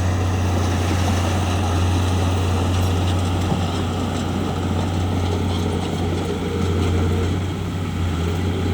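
Bulldozer's diesel engine running steadily, a deep, even drone.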